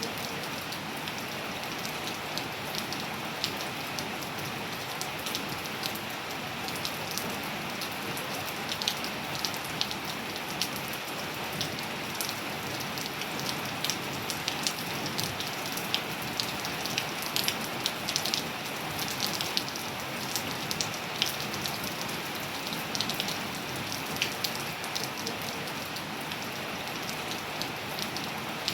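Steady rain with many close drops ticking sharply on hard surfaces.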